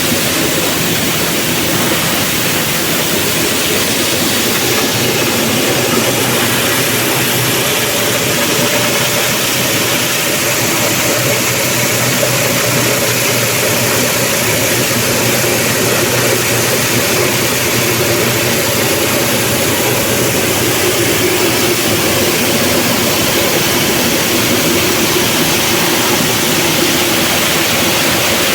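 Multipurpose chopping and grinding machine for compost and organic waste running steadily at full speed, a loud even mechanical noise.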